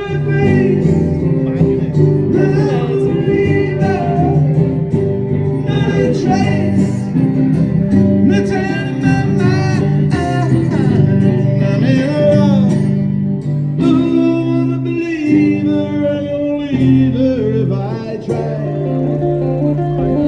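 A male voice singing with guitar accompaniment, a steady song with held bass notes under the sung line.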